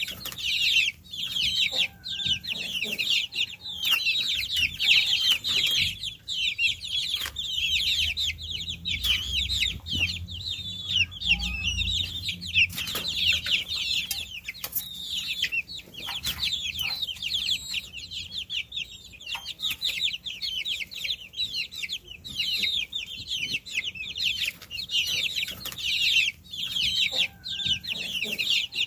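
A brood of baby chicks peeping continuously, many high, short chirps overlapping, with a few soft knocks and a brief low rumble about eleven seconds in.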